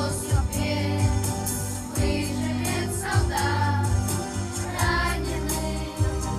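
A song: a choir singing over instrumental music with a steady beat.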